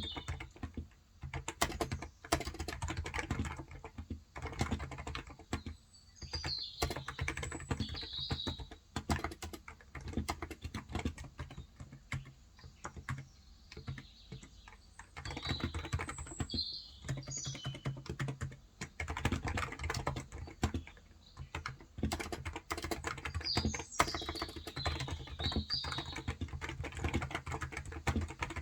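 Typing on a Cox Endeavour electrostatic capacitive tenkeyless keyboard with 35 g switches: quick runs of keystrokes broken by short pauses. Birds chirp briefly in the background three times.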